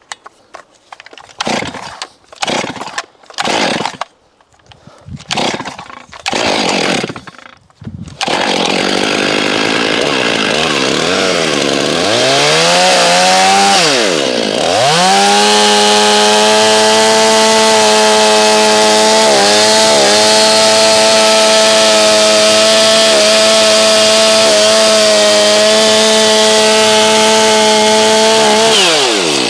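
Two-stroke chainsaw started with a series of short bursts before it catches about eight seconds in. It revs up and then runs at a steady high speed, dipping briefly twice.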